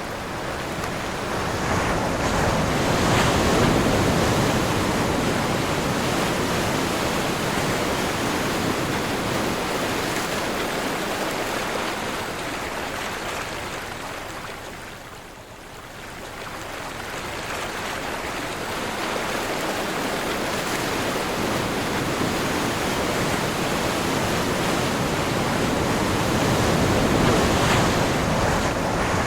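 Sea surf washing on a shore in strong wind, with wind on the microphone. The wash swells near the start, eases to a lull around the middle, and builds again near the end.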